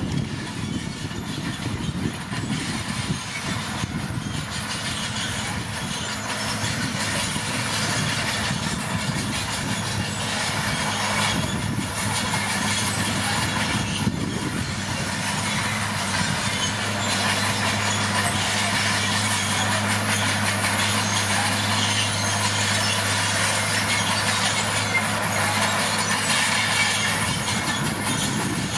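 Komatsu D41P crawler dozer working: a steady diesel engine note under the clatter of its steel tracks. The engine note settles and holds steadier about halfway through.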